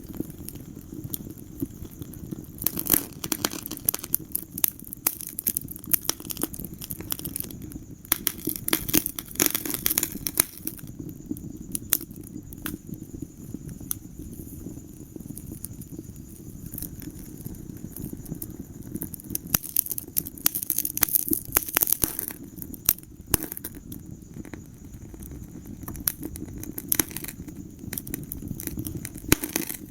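Wood fire crackling in a fireplace: irregular sharp pops and snaps, coming in denser spells, over a steady low rumble of the flames.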